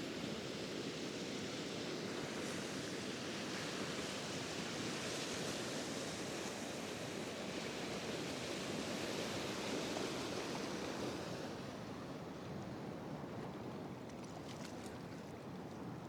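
Swollen stream rushing steadily, running high after a night of heavy rain.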